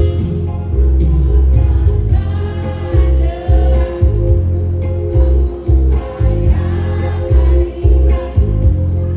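A choir of elderly singers sings in unison over an amplified band accompaniment, with sustained chords and a steady pulsing bass.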